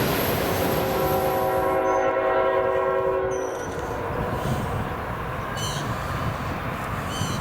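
A freight locomotive's air horn sounds one chord of several notes for about two and a half seconds over the steady rumble of a passing freight train. A few short, high chirps follow near the end.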